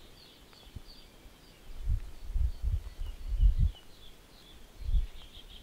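Small birds chirping faintly and repeatedly in high short notes, with a few low dull thumps about two, three and a half and five seconds in.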